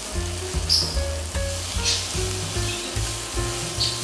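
Food frying in oil, a steady sizzle, with background music that has a stepped bass line underneath.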